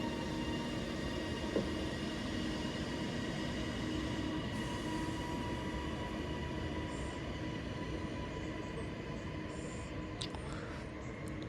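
Class 397 electric multiple unit running at the platform: a steady rumble and hum with several whining electrical tones held at one pitch, easing slightly toward the end. A single sharp click comes about one and a half seconds in.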